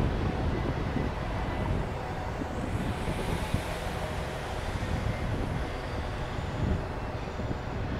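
Freight train rolling past: a steady rumble of double-stack container cars on the rails, mixed with wind buffeting the microphone.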